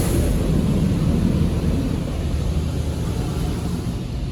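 Automatic car wash machinery running on the car, a steady low rumble with a spraying hiss that gets gradually quieter toward the end.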